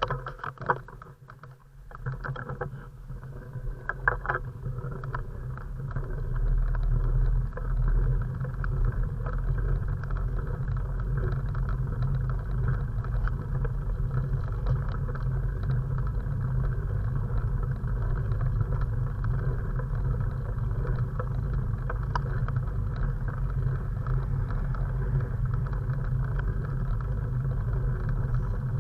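Steady low rumble of wind and road noise picked up by a camera mounted on a moving bike, with a few clicks and knocks in the first couple of seconds.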